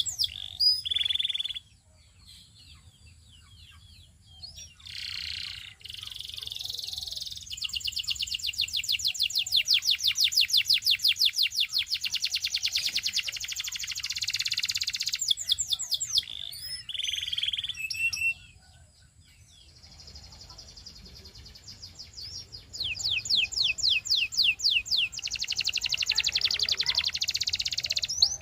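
Canary singing: long rapid trills of repeated high notes, broken by short figures and a brief pause about two-thirds of the way through.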